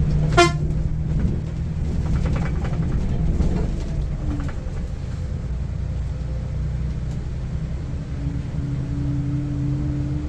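Volvo 9600 coach's B8R six-cylinder diesel engine pulling steadily uphill on a ghat climb, a low continuous drone. A short high-pitched tone sounds once, about half a second in.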